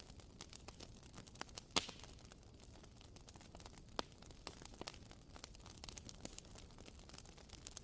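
Wooden wick of a WoodWick candle crackling like a small campfire: irregular faint pops and ticks, with louder pops about two seconds in and again about four seconds in.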